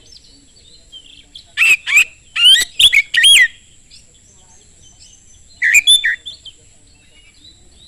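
Oriental magpie-robin singing loud, rapid whistled phrases with quick up-and-down glides: a run of notes from about one and a half to three and a half seconds in and a shorter burst near six seconds, with soft chirps in between.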